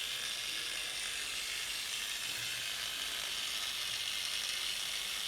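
Small 5-inch, 1,150-watt APT angle grinder running free with no disc fitted, at its lowest speed setting, giving a steady, even whir.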